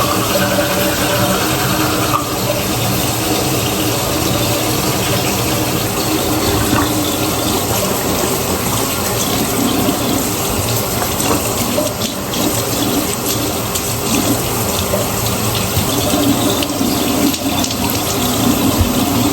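Water running steadily, an even rush with no breaks.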